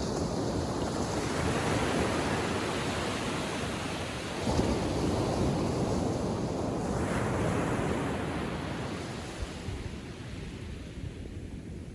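Small waves breaking and washing up a sandy beach on a calm sea. A wave breaks about four and a half seconds in, its wash lifts again around seven seconds, then fades away.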